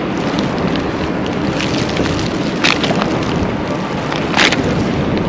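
Blizzard wind buffeting the microphone: a loud, steady rumbling rush, with two short hissing gusts, one a little under three seconds in and one a little after four seconds.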